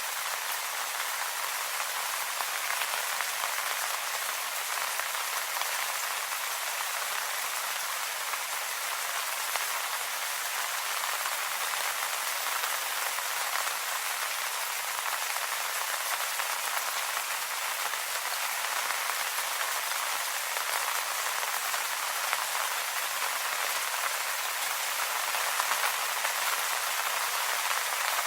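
Steady light rain pattering on leaves, an even hiss of many small drops.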